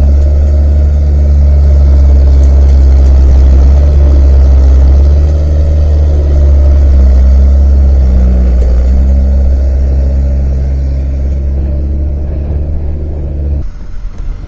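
Skid steer engine running steadily with a loud, low drone. Near the end it drops away suddenly to a much quieter sound.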